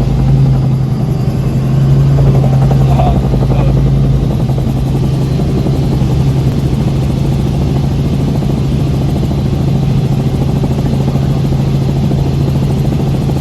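Large multirotor camera drone hovering and flying close by, its motors and propellers giving a loud, steady hum with a constant low pitch.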